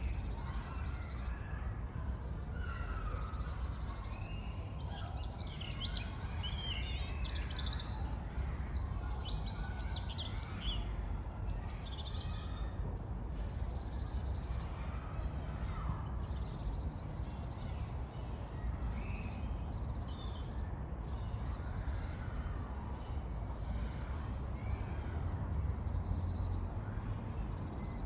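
Woodland songbirds chirping and trilling, busiest in the first half, over a steady low rumble of road traffic.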